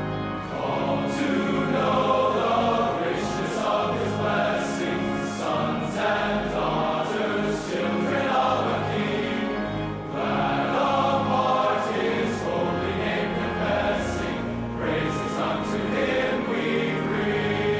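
Choir singing a hymn over orchestral accompaniment.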